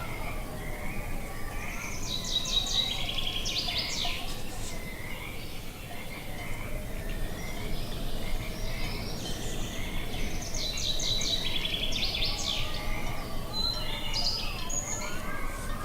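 A songbird sings a bright, high trilled phrase twice, about two seconds in and again near ten seconds. Under it runs a continuous chorus of lower wavering calls over a steady low background noise.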